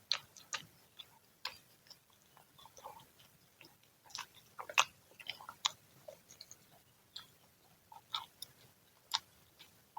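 Close-up mouth sounds of a person chewing freshly fried fritters (gorengan): irregular crunches and wet clicks and smacks, a few at a time, spread unevenly.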